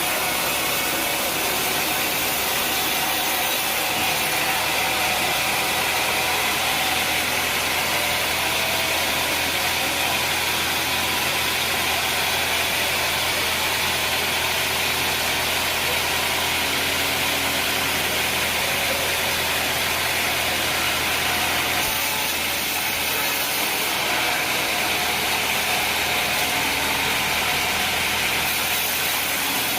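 Sawmill machinery running steadily: a continuous engine-like drone with a bright hiss over it, unbroken throughout.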